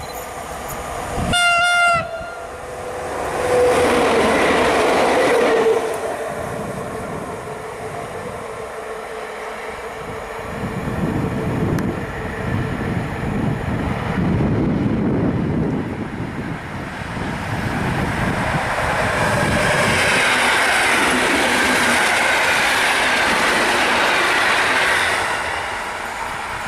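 An electric train's horn gives one short blast, then trains pass at speed on an electrified main line: the rush of wheels on rail swells and fades. A lower rumble follows, and a second long, loud pass-by of an electric multiple unit comes in the latter half.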